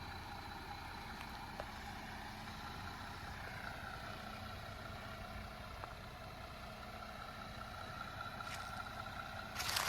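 Jeep Gladiator engine idling with a steady low hum. A brief scrape or rustle comes near the end.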